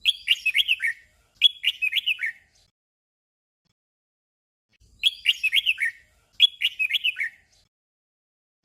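Red-whiskered bulbul singing a short 'double' song: a quick run of whistled notes sung twice back to back. After a pause of about two and a half seconds, the doubled phrase comes again.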